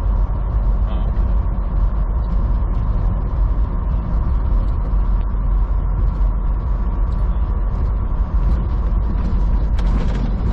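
Steady low engine and road drone inside a moving semi truck's cab, with frequent small rattles and creaks from the cab.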